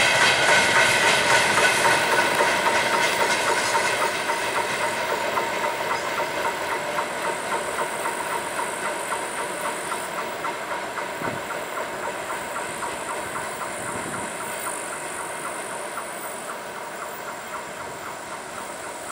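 Freight train wagons rolling away, their wheels clattering in a steady rhythm over the rail joints with some high ringing tones above, fading steadily as the train departs.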